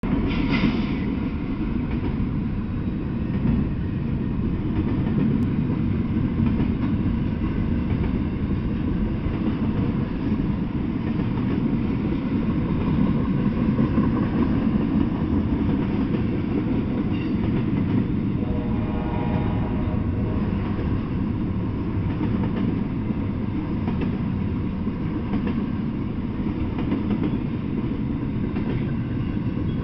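Double-stack intermodal freight train passing: a steady rumble and rattle of the cars rolling on the rails, with a brief faint pitched whine about two-thirds of the way through.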